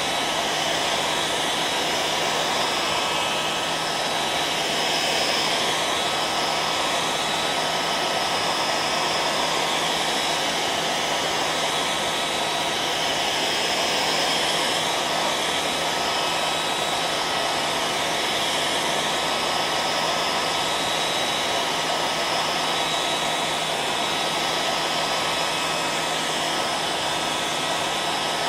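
Electric hair dryer running continuously at constant speed: a steady rush of blown air with a thin motor whine held at one pitch.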